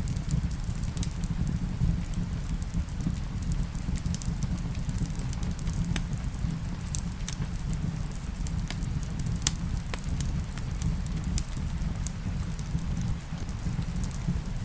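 Wood fire crackling in a fireplace, with scattered sharp pops over a steady low rumble, mixed with falling rain.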